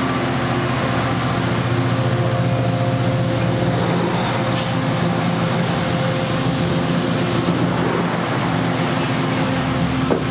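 A vehicle running steadily: a continuous low hum over a broad rumble, with a brief high click about four and a half seconds in.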